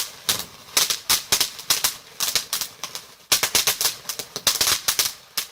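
Small, cheap firework going off with rapid, irregular crackling pops in clusters, easing off briefly about three seconds in before crackling again.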